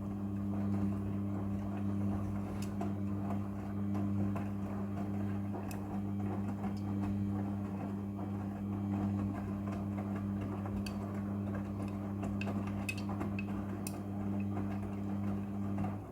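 Front-loading washing machine (Midea) running through a wash, a steady motor hum with scattered light clicks.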